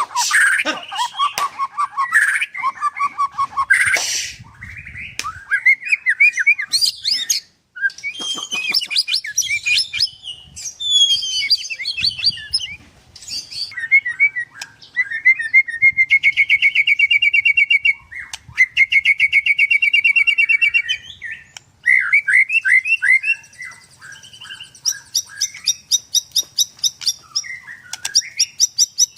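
White-rumped shama (murai batu) singing a long, varied song of whistles, sliding notes and chatters, with two long runs of fast repeated notes in the middle: the rapid-fire 'nembak' delivery prized by shama keepers.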